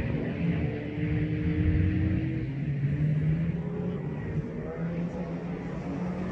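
A competition car's engine being driven hard around a grass-and-dirt course at some distance, its pitch rising and falling as the driver accelerates and lifts off.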